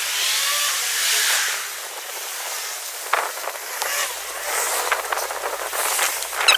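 Road traffic passing along a street: a noisy whoosh that swells and fades in the first couple of seconds, then a lower steady rush with a few small ticks.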